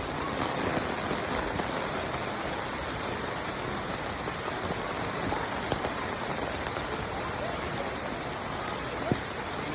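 Steady rain falling, a continuous even hiss, with one sharp click about nine seconds in.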